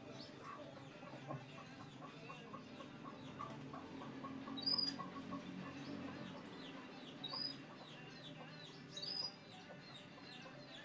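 Birds calling: a run of short clucks and many quick high chirps, with a few louder sharp chirps standing out at intervals over a low steady hum.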